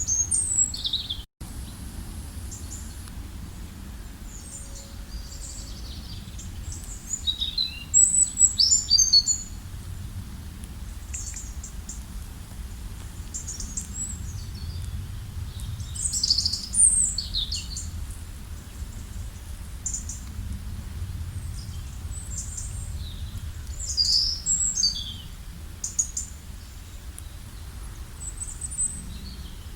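Several small songbirds chirping and trilling in short high-pitched phrases, in clusters with gaps between, over a steady low rumble.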